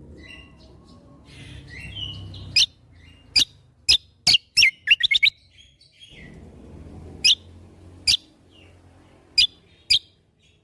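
Kecial kombo songbird singing in 'shots': about ten sharp, loud, very short high chips, several in a quick run near the middle and the rest spaced about a second apart, with a few softer warbled notes early on. A low steady rumble underneath.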